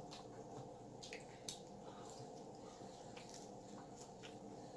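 Faint, irregular wet chewing and mouth clicks of someone eating chicken nuggets, over a steady low hum.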